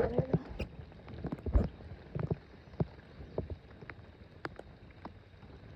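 Scattered, irregular taps and knocks aboard a small fishing boat, with one heavier low thump about one and a half seconds in.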